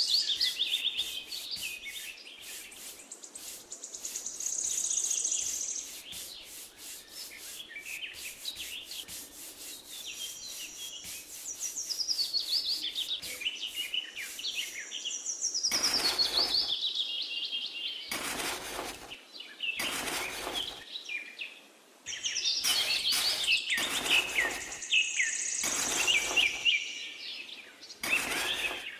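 Birds singing, with chirps and quick descending trills. Over them come brushing and scraping strokes on sand and plastic, and from about halfway through the strokes come as separate, louder scrapes.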